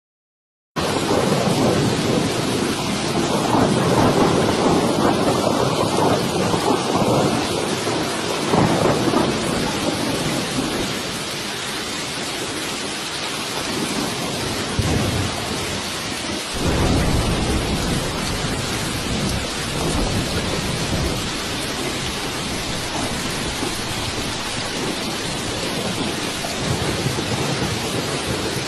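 Steady heavy rain with thunder rumbling in long low rolls, loudest in the first several seconds and again about halfway through. The rain starts suddenly, under a second in.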